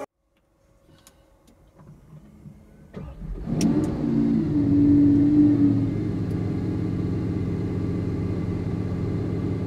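Lamborghini Aventador Ultimae's 6.5-litre naturally aspirated V12 starting up: it fires about three and a half seconds in, flares up in revs, then drops back to a steady idle.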